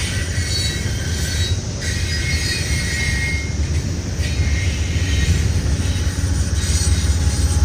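BNSF intermodal freight train's cars rolling past with a steady rumble of wheels on rail, with faint high wheel squeals coming and going.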